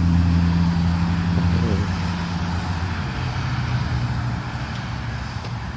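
A vehicle engine running with a steady low hum, which gives way to a quieter, lower hum about three seconds in.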